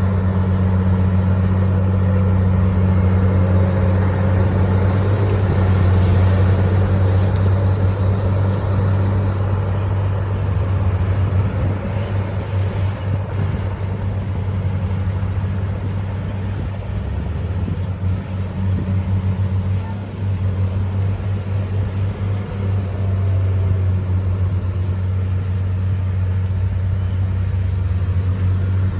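Komatsu bulldozer's diesel engine running under steady power with a deep, even drone; it eases off somewhat around the middle and picks up again toward the end.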